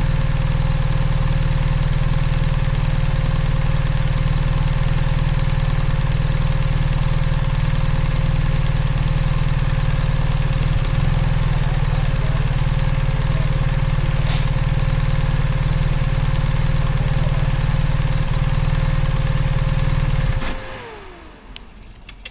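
Motorcycle engine running steadily with a constant whine, then switched off about twenty seconds in, the whine falling away as it winds down.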